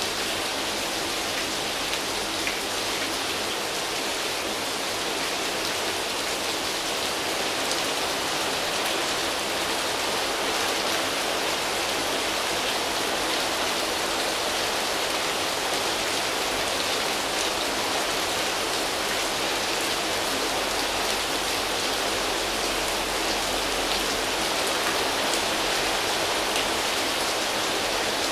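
Steady rain, drops pattering on foliage leaves in an even hiss that neither swells nor stops.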